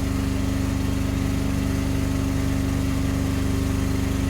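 A boat's engine running steadily at idle, an even hum with a fast regular throb.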